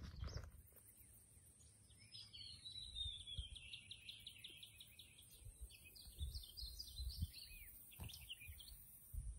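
A songbird singing one long, rapid, twittering song of several seconds, starting about two seconds in, with a few shorter chirps near the end. Faint low thumps run underneath.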